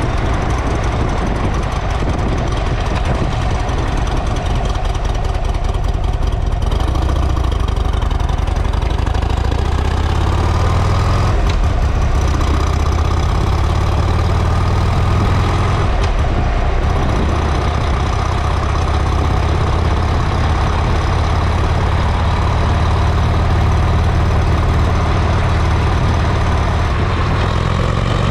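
Buell XB12R's air-cooled 1203 cc V-twin running steadily at idle through its exhaust, a continuous deep rumble.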